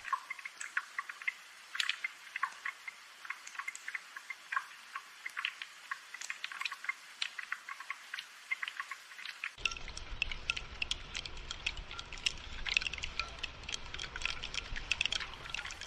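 Steady rainfall with a dense, irregular scatter of small drip ticks and taps. A low rumble joins about ten seconds in.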